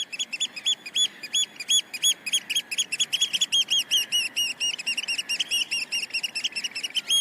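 Young African grey parrot chicks, about seven to eight weeks old, calling: a fast, steady run of short high chirps, each rising and falling, several a second, crowding closer together through the middle.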